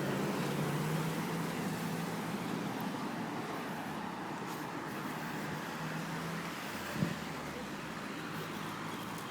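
Road traffic: a passing motor vehicle's engine hum, loudest at first and fading away after about six seconds, with one short sharp knock about seven seconds in.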